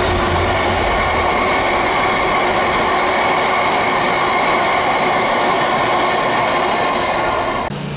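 Freight train tank wagons rolling past on the rails: a steady, loud noise of wheels on track. The low hum of the hauling diesel locomotive fades out about a second in.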